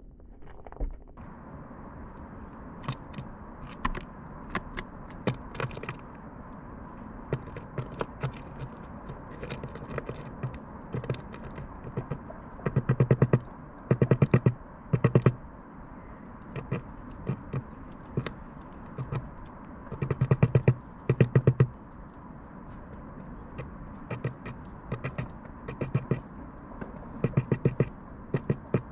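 A tit pecking at food, its beak striking in rapid runs of sharp taps about a second long, with many single taps between.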